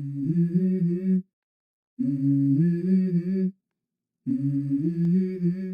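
A voice humming a short stepping melody three times, each phrase about a second and a half long with brief silent pauses between, as the opening of a pop song.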